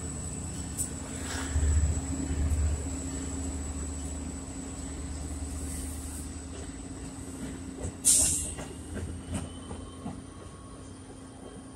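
Diesel-hauled commuter train pulling away: a low engine rumble that fades after about five seconds as the passenger coaches roll past with scattered wheel clicks, a thin steady high whine, and a brief sharp hiss about eight seconds in.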